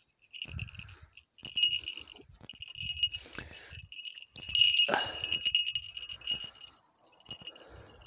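Small metal falconry bell on a Harris's hawk jingling in repeated shakes, loudest about halfway through, over rustling and light handling knocks as the leather jess is worked free from between her feet.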